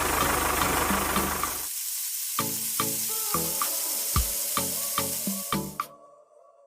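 A small engine running under a steady loud hiss, cut off abruptly about a second and a half in. Background music with a regular beat follows, with the hiss fading out near the end.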